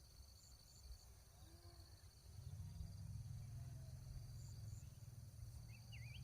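Crickets chirping steadily and faintly, a constant high pulsing trill. About two seconds in, a low rumble comes up beneath it, and a brief wavering chirp sounds near the end.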